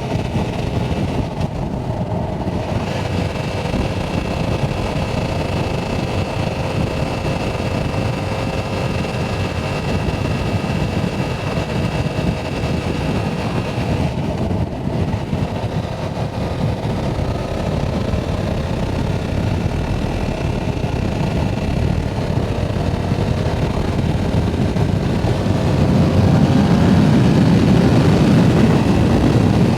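Yamaha R7's parallel-twin engine running while riding, mostly buried under steady wind rush on the microphone. The engine note shifts in pitch and the sound grows louder near the end.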